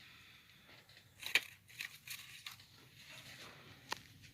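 Faint handling sounds: a few light rustles and clicks, with one sharper tick near the end, over quiet room tone.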